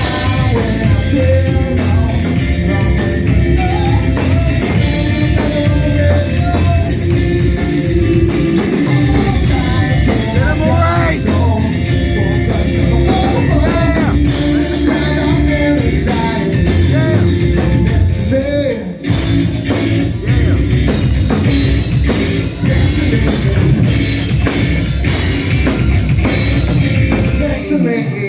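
Live rock band playing loud with drums, guitar and singing, the song coming to an end near the end.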